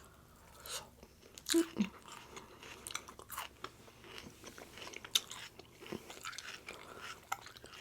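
A person chewing food close to the microphone: irregular soft crunches and wet mouth clicks.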